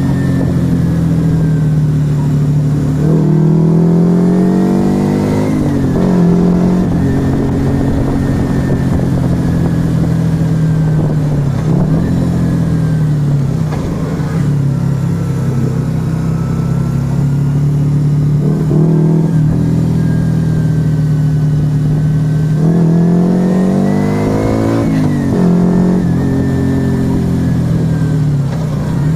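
Yamaha XV125 Virago's small air-cooled V-twin running through an aftermarket Turbo Kit exhaust, heard from the bike while riding. The engine note climbs in pitch and then drops back sharply twice, as on shifts up through the gears, with steady cruising in between.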